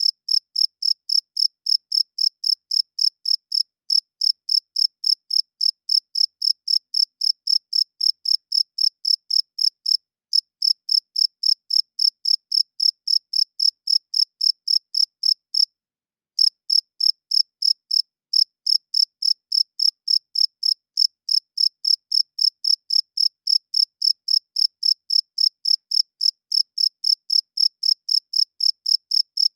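Cricket chirping: a steady rhythm of short, high-pitched chirps, about three to four a second, made by a male rubbing its wings together. The chirping breaks off briefly about ten seconds in and again about sixteen seconds in.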